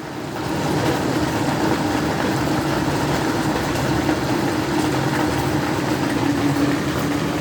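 Heavy rain and hail falling steadily, with a steady low hum underneath.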